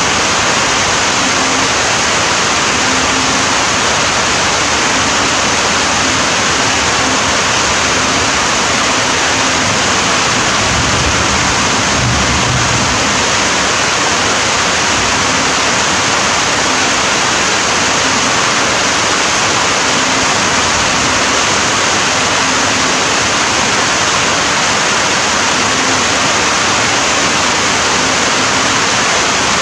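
Heavy rain falling in a steady, dense hiss with no let-up, and a brief low rumble about a third of the way in.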